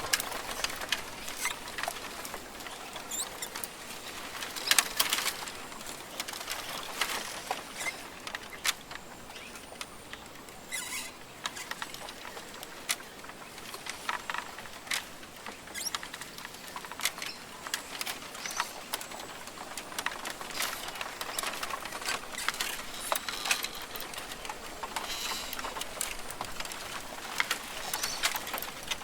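Rainforest ambience: irregular scattered ticks, clicks and pattering over a steady high hiss, with a few faint short chirps.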